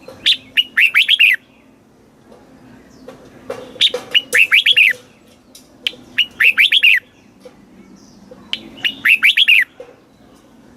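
Red-whiskered bulbul singing: four short, quick phrases of clear whistled notes, each about a second long, with pauses of one to two seconds between them.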